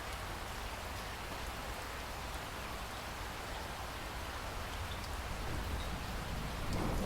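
Steady heavy rain falling in a rainforest, with a low rumble underneath, growing slightly louder toward the end.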